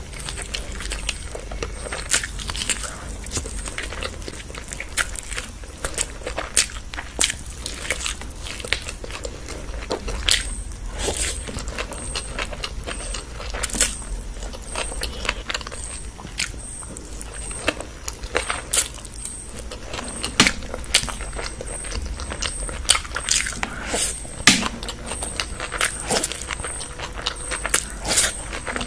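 Close-miked eating of chicken and noodles: chewing with many irregular sharp wet mouth clicks and crackles.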